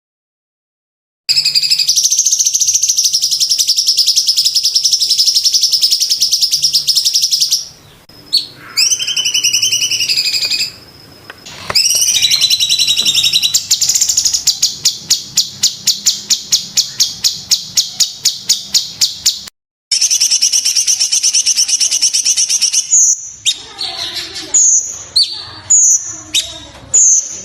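Cucak cungkok singing loud, high-pitched song: long fast trills, a run of rapid repeated notes at about five a second, then short sharp calls spaced about two a second near the end. It starts about a second in.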